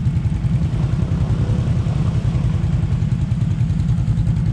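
ATV (quad bike) engine running steadily, a low pulsing drone with no revving.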